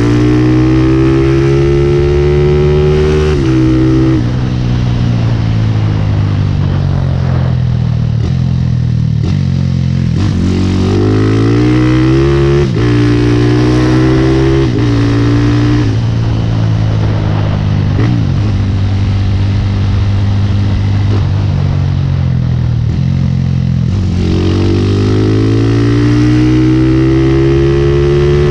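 Motorcycle engine running under way, its pitch climbing as it accelerates and dropping suddenly at each gear change, several times over, then easing off and climbing again near the end.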